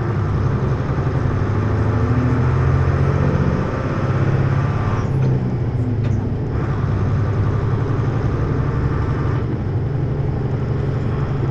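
Hino U-HT2MLAA city bus's diesel engine running under way, heard from inside the cabin as a steady low drone with road noise, dipping briefly about three and a half seconds in. This bus is one that its recordist describes as tending toward abnormal noises, close to the state of a sister bus near the end of its service life.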